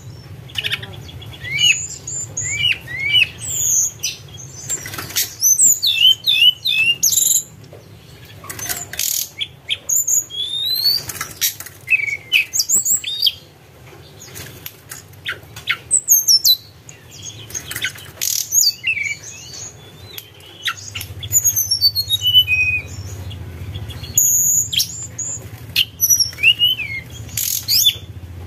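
Tledekan gunung singing: many short, quick whistled notes that sweep up and down in pitch, delivered in broken phrases with scattered clicks and faint low hum beneath. This is a lure recording of the bird's song.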